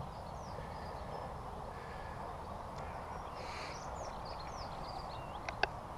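Small songbirds chirping and singing over a steady outdoor background hiss, with a couple of sharp clicks near the end.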